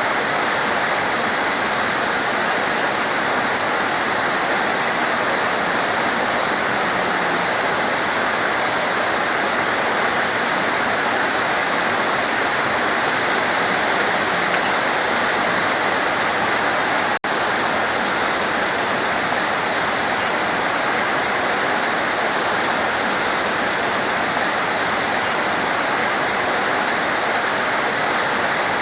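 Heavy torrential rain pouring steadily as a dense, even hiss, with a split-second dropout a little past the middle.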